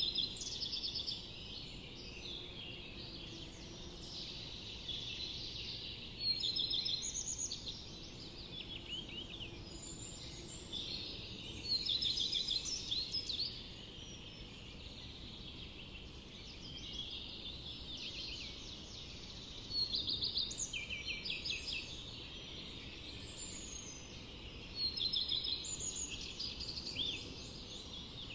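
Songbirds singing in a forest: bouts of quick, high, trilled notes about every five to seven seconds, over a steady low background hiss.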